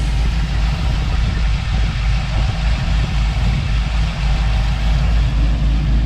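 Fuel-injected, cammed LS V8 in a 1985 Chevy K10 idling steadily with the hood open, a strong, even low rumble that sounds nice and smooth.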